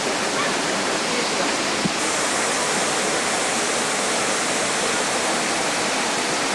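Carpathian mountain waterfall: water pouring and splashing in a steady, even rush.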